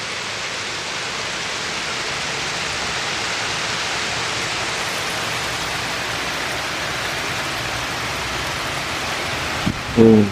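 Small hail falling steadily, a dense even hiss of pellets striking surfaces. A brief voice sound comes just before the end.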